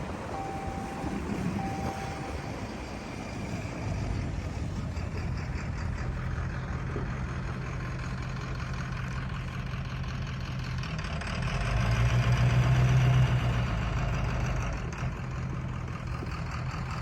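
Ford 7.3-litre V8 diesel truck engine idling after a cold start, its note swelling briefly about eleven seconds in before settling again. A short beeping chime repeats in the first two seconds.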